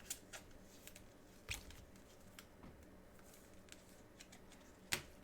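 Faint rustling and handling of trading cards and their packs, with scattered light clicks; the sharpest click comes near the end.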